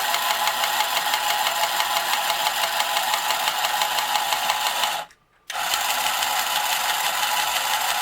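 Marx Moon Scout tin toy helicopter running, its small motor and rotor gearing giving a steady rapid buzzing rattle as the rotors spin and the wheels drive it forward. It cuts out for about half a second about five seconds in, then starts again.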